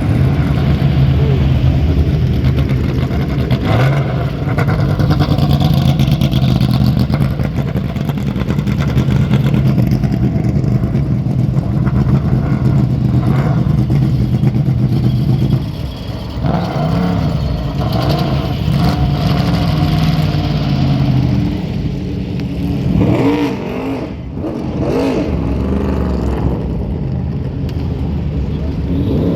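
Historic prototype race car engines running loudly, holding a steady note for about the first fifteen seconds, then revving up and down in varying pitch.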